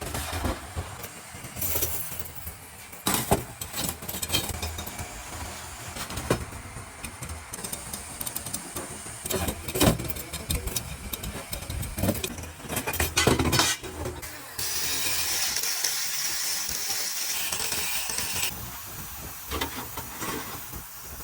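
Motorcycle factory work noise: irregular metallic clanks and knocks from assembly tools over a low machinery rumble. Past the middle comes a steady hiss that lasts about four seconds and then stops.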